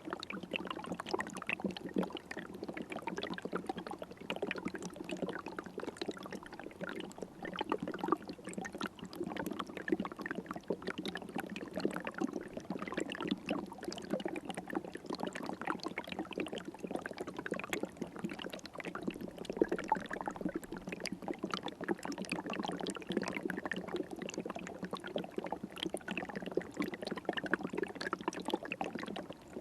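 River water flowing steadily, a continuous rush made of many small, quick splashes.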